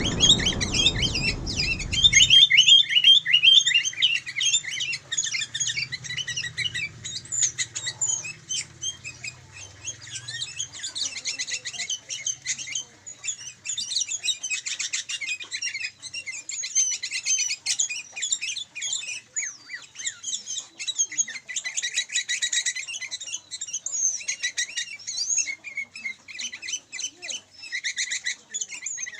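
Sooty-headed bulbuls (kutilang) chirping and calling continuously in rapid, high-pitched twitters and short trills. A loud rushing noise runs under the first two seconds, then stops.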